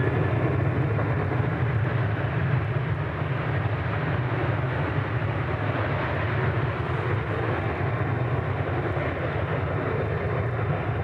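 Boeing 737 jet engines running steadily at takeoff power: a loud, even low rumble with a hiss above it.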